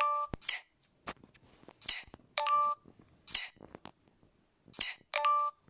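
A short electronic chime sounds twice, about three seconds apart, each ding a bright chord of a few steady notes lasting under half a second. Short hissy sounds come between the dings.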